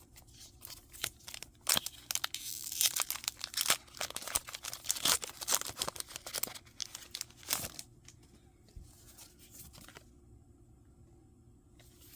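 A foil Pokémon booster pack wrapper being torn open and crinkled by hand, a dense run of sharp crackles that stops about eight seconds in.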